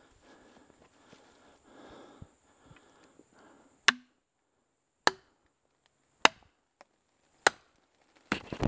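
Four sharp strikes on wood about a second apart, typical of a felling wedge being driven into the back cut of a dead elm with the chainsaw shut off. Near the end comes a quick burst of cracks as the tree begins to give way.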